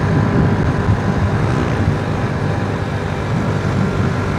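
Honda Astrea Grand's small single-cylinder four-stroke engine running at steady road speed, under a continuous uneven rumble of wind on the microphone.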